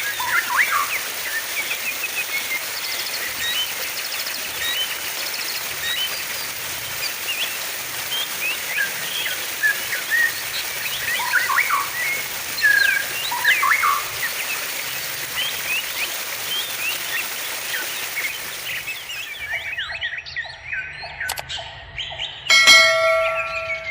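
Running water with many small birds chirping and twittering over it. About 20 seconds in, the water sound cuts off abruptly. Sparser bird calls continue after that, with one loud, harsh call near the end.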